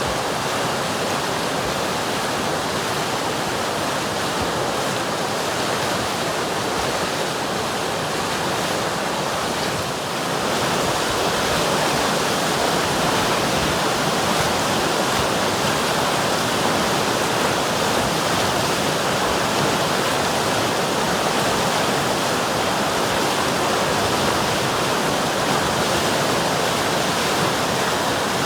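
River water flowing, a steady even rush of noise that gets a little louder from about ten seconds in.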